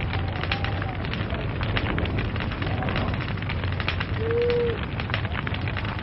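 Burning log fire crackling steadily, with dense irregular pops and snaps over a low rumble. About four seconds in, a brief whistling tone rises and falls, the loudest moment.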